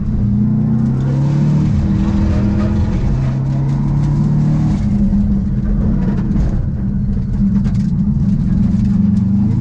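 Subaru rally car's engine heard from inside the cabin, pulling hard at full throttle. The revs climb, drop back at each gear change, and climb again.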